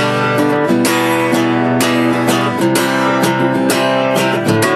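Acoustic guitar strummed in a steady rhythm, chords ringing between the vocal lines of a folk song.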